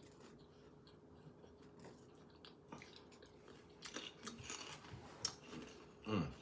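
Close-up chewing of food, with small crunching and clicking sounds that grow busier about two thirds of the way in. A brief falling voice sound comes near the end.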